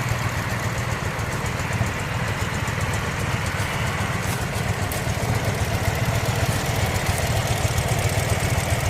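Ural 750 sidecar motorcycle's air-cooled flat-twin engine idling steadily, with an even, rapid low beat.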